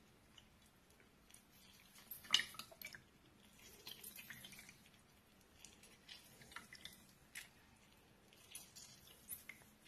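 A fresh lemon half squeezed by hand, with faint squishing and juice dripping into a bowl of vinegar and water in scattered bursts. The loudest squeeze comes a little over two seconds in.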